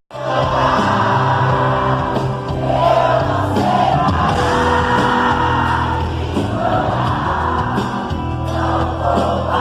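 Live concert music: a band playing with many voices singing, the audience joining in. A split-second dropout right at the start.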